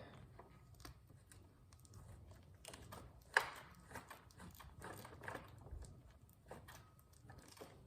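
Faint, scattered clicks and knocks of hand work on a motorcycle's rear axle nut as it is tightened by hand, with one sharper click about three and a half seconds in.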